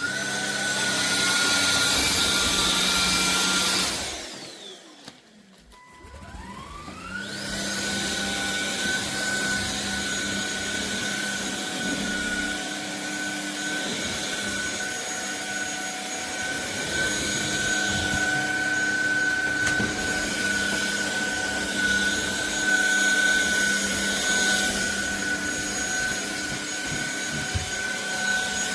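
Cordless stick vacuum's motor running with a steady high whine. About four seconds in it is switched off and winds down, then about two seconds later it spins back up and runs steadily.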